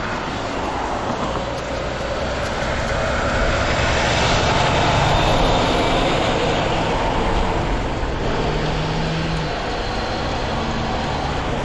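Steady rush of wind and road noise from riding an electric bike at speed, swelling for a few seconds in the middle and then easing.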